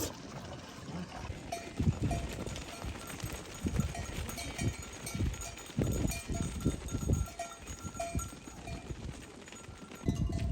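Small livestock bells clinking at irregular moments, over a scatter of low thumps.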